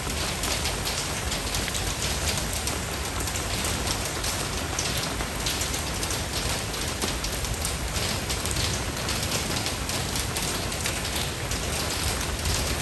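Steady rain falling on a surface, a dense patter of drops over a low rumble.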